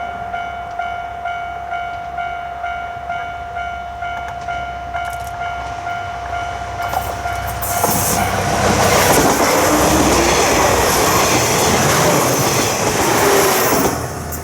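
Japanese railway level-crossing alarm ringing in a steady repeating ding about twice a second. About eight seconds in, the 'Yufuin no Mori' limited express diesel train passes over the crossing, a loud rush of engine and wheel-on-rail noise with clickety-clack that lasts about six seconds, with the crossing alarm still ringing under it.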